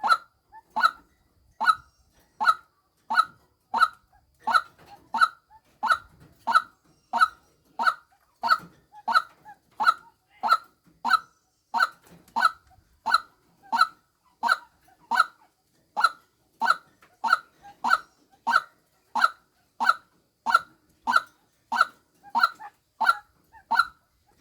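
White-breasted waterhen call, a short pitched call repeated steadily about three times every two seconds, the female call used as a lure for waterhens.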